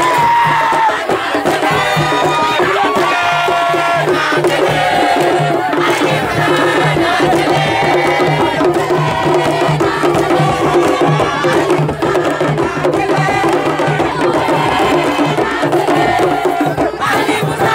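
Several voices singing together over a steady, pulsing drum rhythm.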